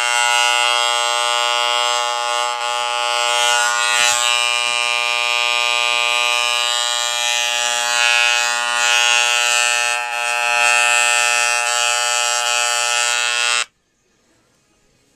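Wahl CMCO electromagnetic hair clipper running on a test after reassembly, a steady buzz, switched off suddenly near the end.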